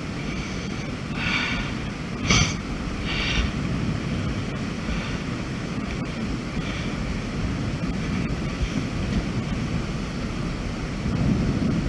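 Wind buffeting the microphone as a steady low rumble, with a few short hissing sounds early on and a sharp knock about two seconds in.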